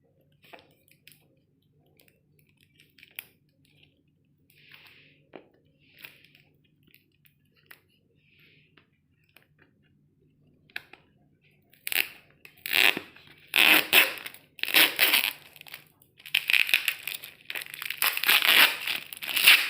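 Packaging of a boxed mobile phone being handled and opened: faint clicks and light rustles at first, then, about two-thirds of the way through, loud crinkling and tearing in repeated bursts. A faint steady low hum sits underneath.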